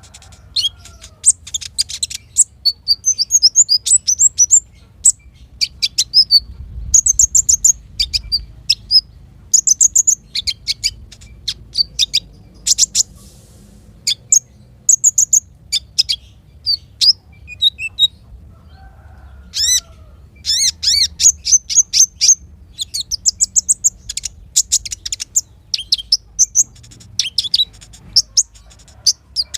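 A small songbird singing a fast, continuous string of high-pitched chirps, twitters and short trills, with a brief pause just before the 20-second mark, over a faint low hum.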